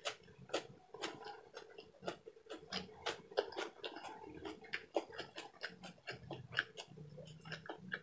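Close-miked chewing of pork and chicken adobo: a run of small wet mouth clicks and lip smacks, several a second, over a faint steady hum.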